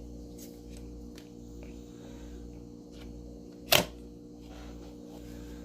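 A single sharp click about three-quarters of the way in, over a faint steady electrical hum.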